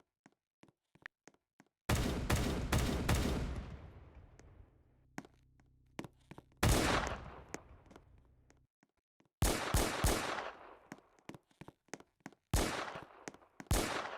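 Several bursts of rapid sharp bangs, each trailing off, with faint clicks in between.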